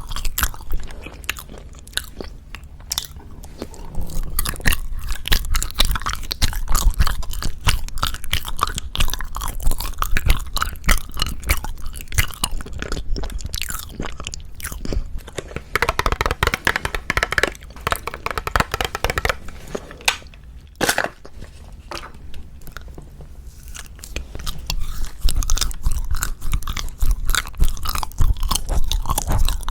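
Close-miked mouth sounds of someone biting and chewing hwagwaja (Japanese-style confections): a dense, irregular run of small clicks and smacks, thickest a little past the middle.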